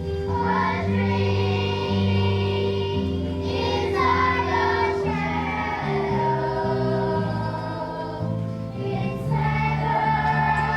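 Children's choir singing a song over instrumental accompaniment, with a bass line stepping from note to note.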